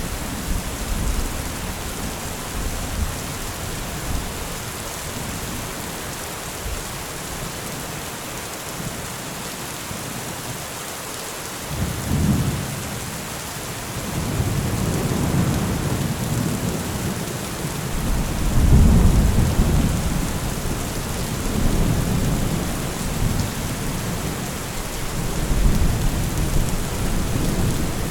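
Steady rain falling, with rolling thunder rumbling in from about halfway through and swelling loudest twice in the second half.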